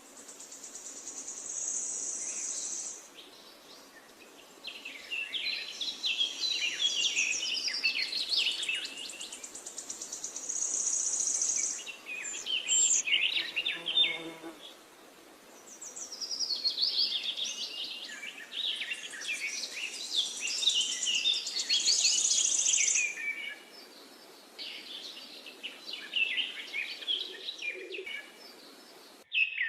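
Several songbirds singing, with many short chirps and warbling phrases. A high, rapid buzzing trill comes in and drops out in stretches of a few seconds.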